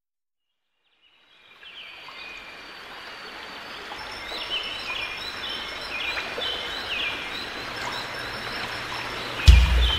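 Birds chirping in short, repeated rising calls over a steady hiss, fading in after a moment of silence. A loud low thump near the end.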